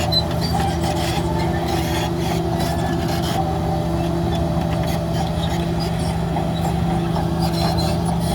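Heavy diesel engine of earthmoving machinery running steadily, with bursts of scraping and clattering about two to three seconds in and again near the end.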